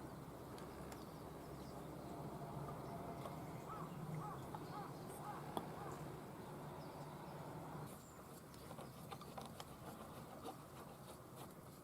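Faint outdoor background with birds calling, and a few light clicks.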